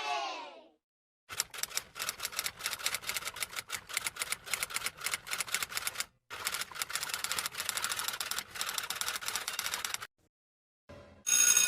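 Rapid typing, a dense run of key clicks lasting about five seconds, a brief break, then about four seconds more. A crowd's cheering fades out in the first second, and a new sound with a steady pitch starts just before the end.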